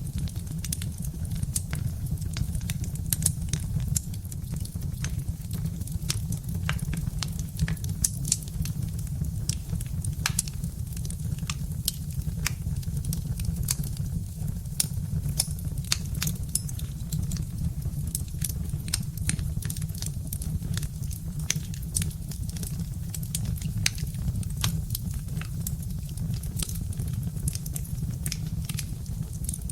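Birch-log fire crackling, with many irregular sharp pops and snaps over a steady low rumble.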